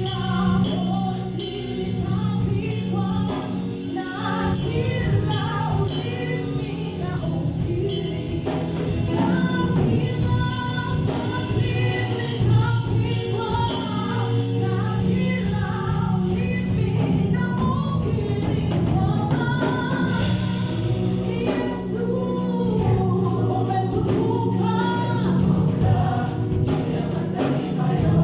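Gospel choir singing with a live band: voices over a steady bass line and rhythmic percussion.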